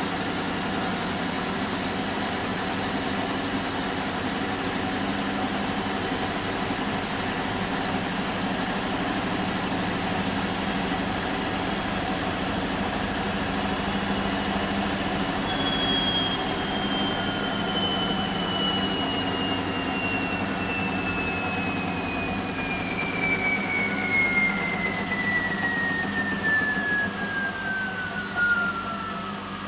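Bosch WAN28220FF washing machine running on a synthetics 40 °C cycle: a steady mechanical hum, and from about halfway a high motor whine that falls steadily in pitch as the drum slows down after a spin.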